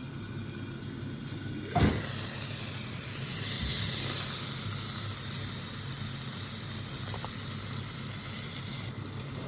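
A thump about two seconds in, then food sizzling in a hot pan, the sizzle swelling and then holding steady over a low hum.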